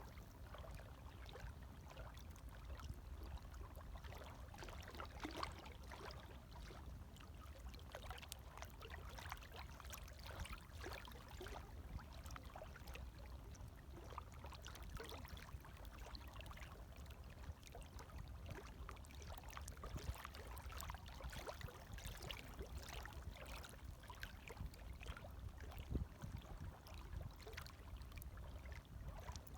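Gentle small waves lapping at the water's edge: a continuous stream of small splashes and trickles over a low rumble.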